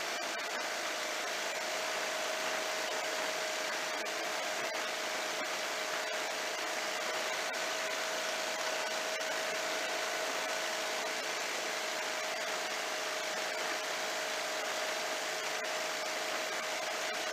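Ultralight airplane in flight: a steady engine drone with a constant hum under a rush of wind noise, unchanging in pitch and level.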